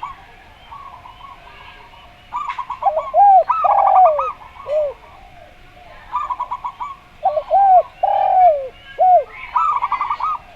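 Doves cooing against each other. Zebra doves give fast trilled phrases of rapid notes several times, and a spotted dove answers twice with a lower phrase of slower, arching coo notes.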